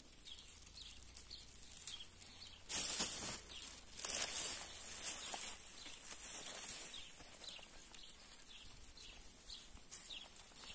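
Small birds chirping repeatedly, with louder rustling bursts about three seconds in and again from about four to seven seconds in.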